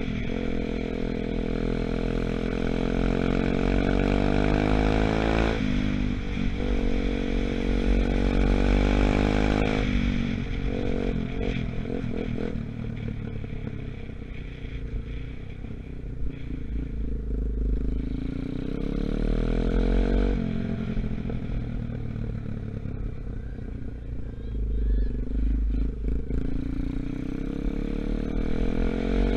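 125cc Gunshot dirt bike engine, still being run in, rising in pitch as it accelerates. It drops about five and a half seconds in and climbs again, then runs lower and lighter for a while before picking up again near the end.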